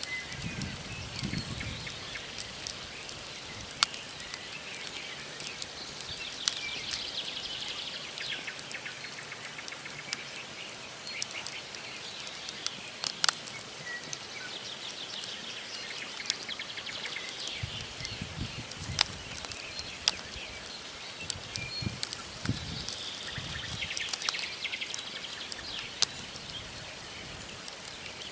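Wood campfire crackling, with scattered sharp pops from the burning logs over a soft hiss. Birds chirp and trill in the background, most noticeably early on and again near the end.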